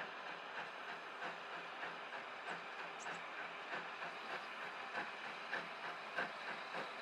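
A train running on track: repeated clicks of wheels over rail joints over a steady hiss, the clicks getting louder from about five seconds in.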